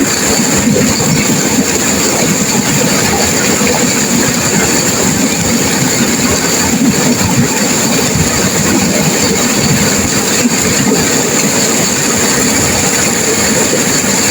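Turbulent river water rushing and crashing over rocks, a loud, steady roar with no let-up.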